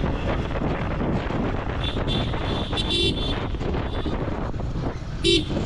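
Wind rushing over the microphone of a moving motorcycle, with road and traffic noise. A vehicle horn toots briefly twice, about three seconds in and again near the end.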